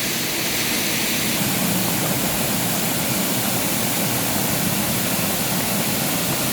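Waterfall at full flow: a steady, loud rush of falling water.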